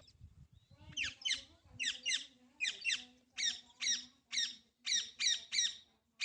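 Alexandrine parakeet giving a run of short, harsh squawks in quick twos and threes, starting about a second in.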